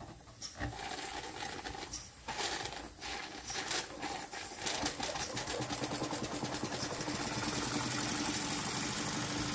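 Jensen 20-S model steam engine starting up: irregular clicks and knocks at first, then about five seconds in it settles into a fast, even mechanical beat that grows a little louder. It runs smoothly after a slight valve-timing adjustment, with the small generator it drives adding its own whirring.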